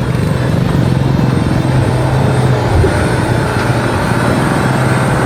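Diesel truck engine running loud and steady under heavy load, with a brief dip in pitch about three seconds in.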